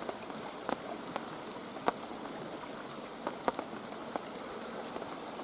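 Swollen stream running steadily, with heavy raindrops striking close by in an irregular patter of sharp taps.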